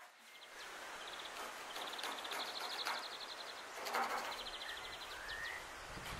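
Outdoor background with birds chirping: a rapid high trill that comes and goes, and a short rising call about five seconds in. A single light knock comes about four seconds in.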